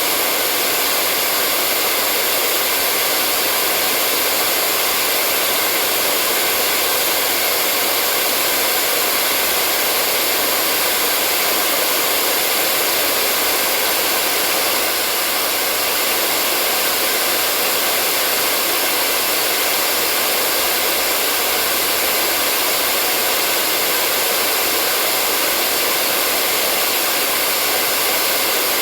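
Hair dryer running continuously at a steady, even pitch: a constant rushing hiss of blown air with the motor's hum, used as white noise to lull a baby to sleep.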